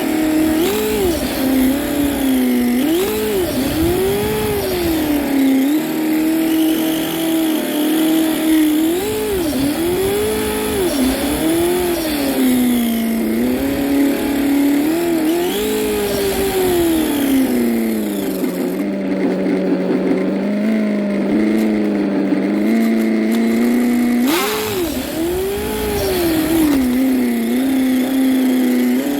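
Radio-controlled car's motor sound rising and falling in pitch over and over as the car speeds up and slows down, with a steadier lower stretch in the middle and one sharp knock near the end.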